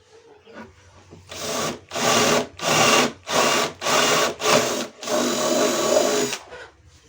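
Small electric power-tool motor switched on in about six short bursts, then run once for over a second before stopping.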